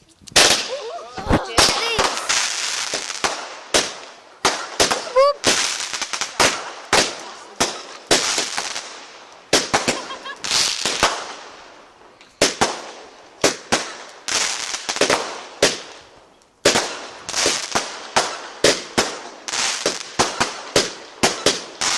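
Consumer fireworks going off in a long run of sharp bangs, about one or two a second, each followed by a fading crackling hiss, with a short pause near the middle.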